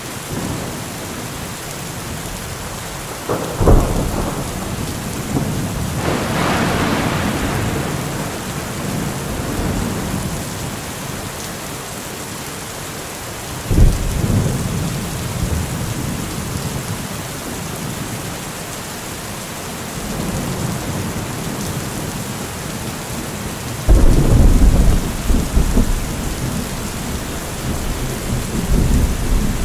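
Heavy rain falling steadily, broken by thunder: a sharp clap a few seconds in that rolls on into a long rumble, another sudden crack about halfway through, and the loudest clap, with a rumble of several seconds, about four-fifths of the way in.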